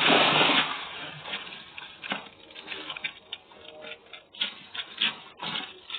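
Ice and plastic-wrapped seafood packs being rummaged through in a box. There is a loud rustling rush at the start, then scattered crackles, clinks and knocks.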